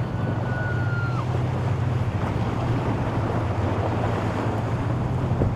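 Motorboat engine running steadily under the splash of waves and wind buffeting the microphone. A brief high whistle-like tone sounds in the first second.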